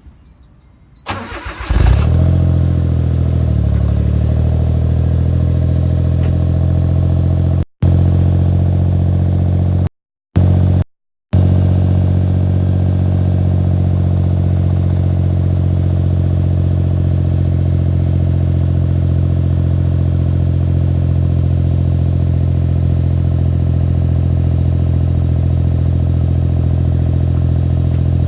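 Suzuki Lapin SS's 660 cc turbocharged three-cylinder engine, breathing through a motorcycle muffler with a straight pipe after the catalytic converter, cranks briefly about a second in, catches and settles into a steady idle.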